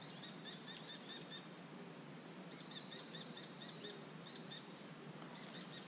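A bird calling in quick runs of short, high chirps, about five a second: one run at the start, a second in the middle and a third starting near the end. It is faint, over a low outdoor background hiss.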